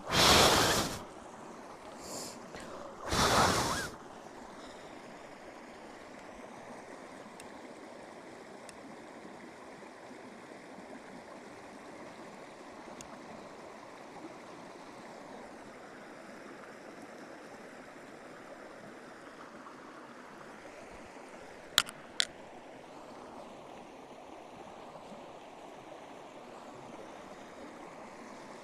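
Steady rushing hiss, with two loud gusty bursts in the first four seconds and two sharp clicks about 22 seconds in.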